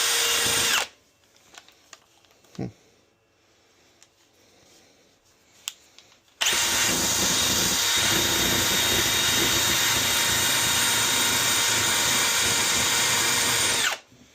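Power drill running in two steady, even-pitched runs: a brief one that stops about a second in, then a long one from about six seconds in that cuts off abruptly near the end. It is being used to clean stubborn deposits off the inside of the boiler.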